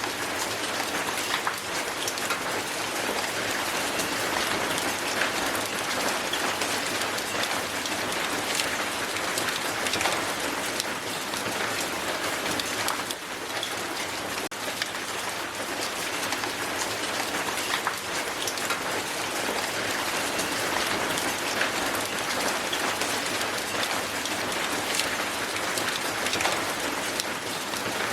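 Hail falling hard on the ground: a dense, steady clatter of many small ice impacts with individual sharper ticks scattered through it.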